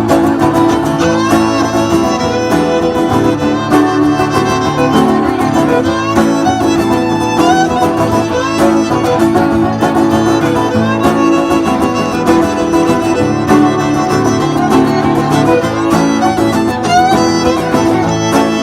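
Old-time string band playing an upbeat instrumental break, a fiddle carrying the melody over guitar backing.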